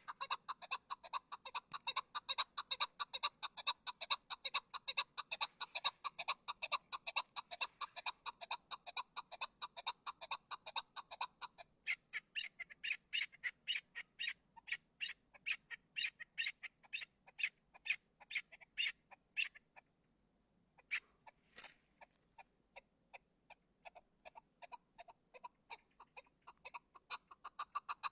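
An animal calling in a fast, even series of short notes, about five a second. About twelve seconds in, the notes turn higher and thinner. They pause briefly near twenty seconds, then go on.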